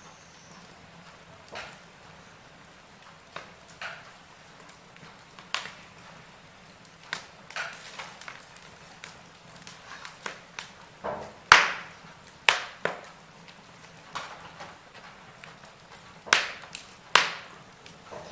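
Wood fire burning in a fireplace, crackling with irregular sharp pops over a faint steady background; the loudest pops come about eleven seconds in and near the end.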